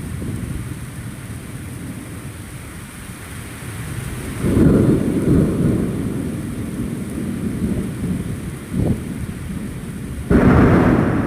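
Steady rain with rumbles of thunder: a long low rumble about four and a half seconds in, a short one near nine seconds, and a louder one that starts suddenly near the end.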